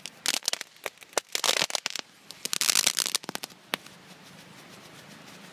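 A firework crackling: dense clusters of rapid sharp crackles that die away after nearly four seconds, leaving a faint hiss.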